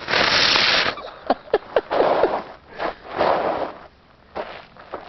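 Fireworks going off: a loud hiss for about the first second, then a few sharp pops, then several shorter bursts of hissing.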